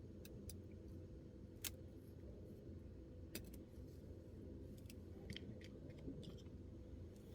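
Light, scattered clicks and taps of small plastic miniature pieces being handled and set down, the sharpest about a second and a half in, over a faint steady hum.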